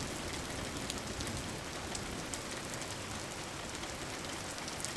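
Steady rain falling on a surface, an even patter with scattered sharper drops.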